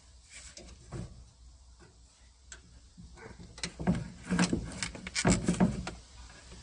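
A long ratchet with a deep socket worked at a door hinge bolt, where it is getting stuck: scattered clicks, then louder metal knocks and scraping from about three and a half seconds in.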